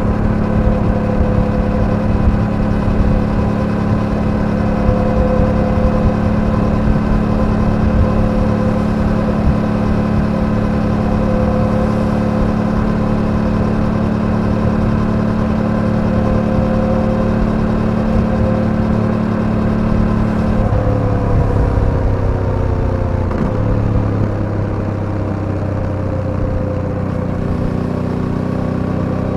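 Suzuki V-Strom 800DE's parallel-twin engine running steadily under way. About twenty seconds in, the revs fall, and it settles to a lower steady note.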